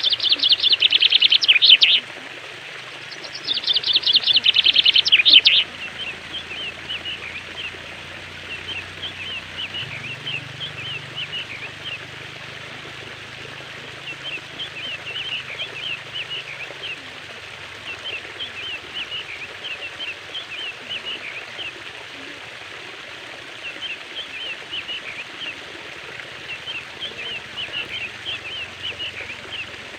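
Birds singing over a steady background of flowing water: two loud, rapid trills in the first six seconds, then softer, repeated chirping phrases every couple of seconds.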